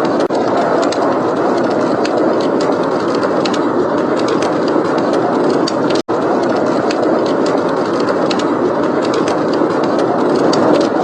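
Steady blizzard wind mixed with the irregular pops and crackles of a wood fire. The sound cuts out for an instant about six seconds in.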